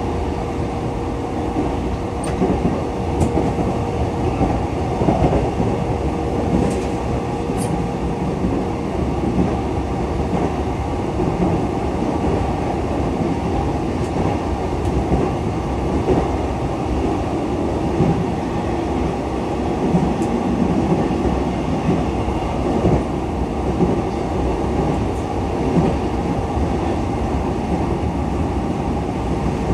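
Running sound of a JR East E233-7000 series electric train at steady speed: a dense, even rumble of wheels on rail with a faint steady hum held at one pitch, and a few light ticks.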